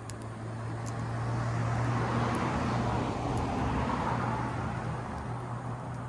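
A road vehicle passing by: a broad engine and tyre noise swells over about two seconds, peaks, then fades away, over a steady low hum. A few faint crackles from the campfire sound at the top.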